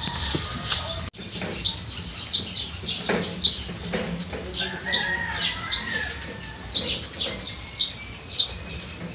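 Birds chirping: short, high chirps repeating about twice a second.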